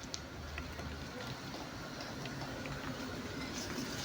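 Faint steady background with a few scattered light clicks and taps.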